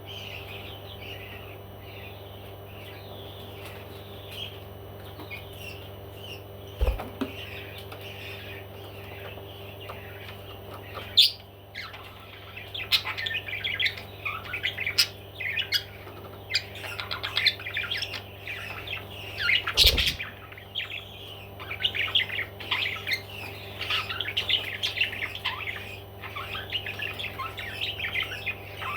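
Parrots chirping and chattering in quick high notes, sparse at first and then busy and continuous through the second half, over a steady low hum. There are a couple of sharp knocks, one about a quarter of the way in and one around two-thirds of the way in.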